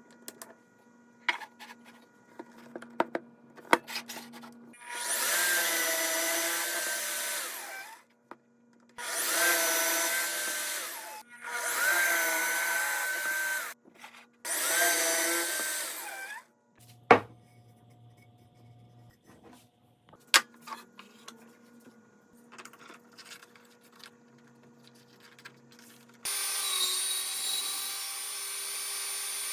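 Handheld power tool working wood in four runs of two to three seconds each, its motor giving a steady whine, with clicks and knocks from handling the workpiece between runs. Near the end a different tool starts and runs steadily.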